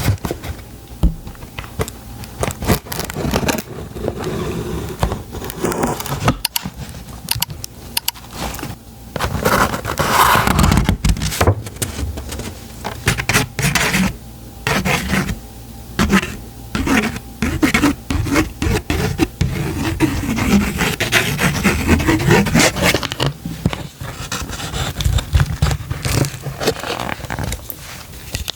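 Close-miked scraping and tapping on a subscription box and its packaging, many quick irregular clicks with longer rustling scrapes, as the package is handled for opening.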